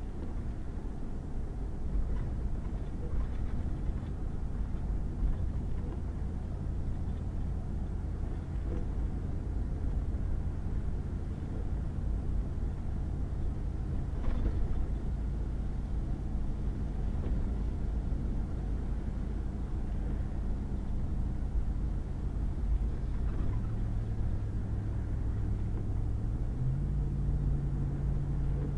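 Pickup truck driving on a muddy gravel back road: a steady low rumble of engine and tyres. The engine note steps up in pitch twice near the end as the truck speeds up, and there is a single knock about halfway through.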